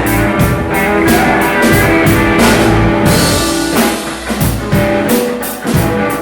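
Rock band playing an instrumental passage: electric guitar over a steady drum-kit beat, without vocals.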